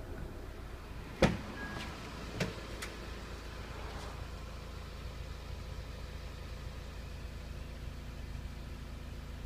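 Honda Civic engine idling steadily, heard from inside the cabin, with two sharp knocks about a second in and again a second later.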